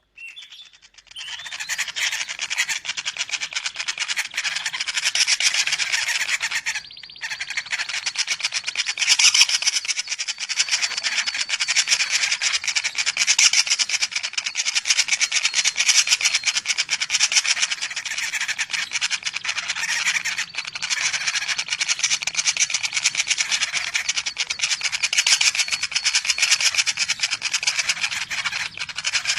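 Common flameback woodpecker (pelatuk bawang) nestlings giving a continuous, fast, rasping begging chatter, with a brief break about seven seconds in.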